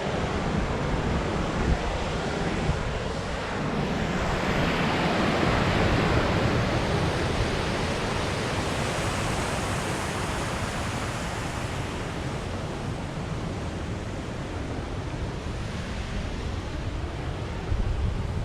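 Wind blowing across the microphone: a steady rushing noise with low rumbling buffets, swelling about four to seven seconds in.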